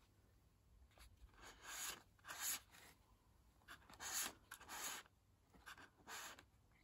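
Cardboard product packaging, a box nested inside a box, being slid open and handled. It makes a series of about five short, faint scraping rustles.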